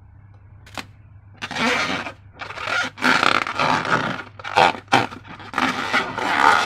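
Hands working slime materials and rubber balloons, making irregular scraping and rubbing strokes. After a quiet start with a single click, the strokes begin about a second and a half in and grow louder after about three seconds.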